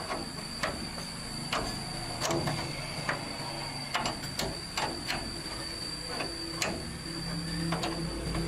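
Irregular metallic knocks and clicks, about one or two a second, from hand-tool work on a heavy truck wheel, over a steady high whine; a low hum swells near the end.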